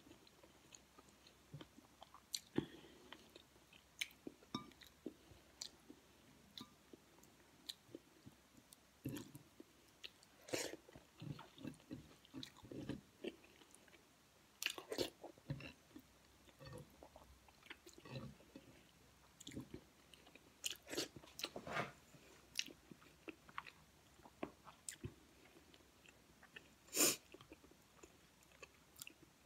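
A person eating rice and kare-kare with her fingers: faint, irregular chewing with small clicks scattered throughout. There is one louder short sound near the end.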